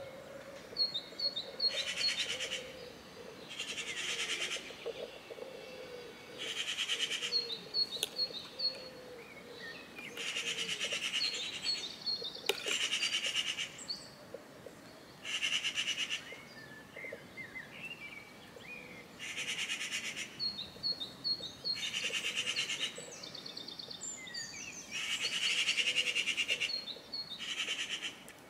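Songbirds singing: high, rapid trills about a second long, repeated every couple of seconds, with short runs of quick high chirps in between.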